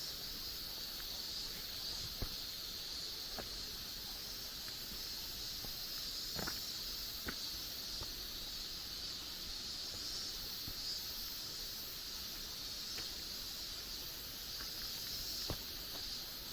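Steady, high-pitched drone of an insect chorus in the forest, with a few faint clicks scattered through it.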